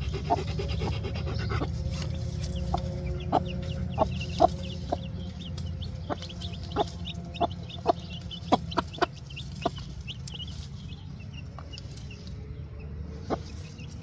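Mother hen clucking in short, separate clucks, about fifteen in the first ten seconds and one more near the end, calling her newly released chicks to forage. Faint high peeps from the chicks run above the clucks, over a steady low rumble.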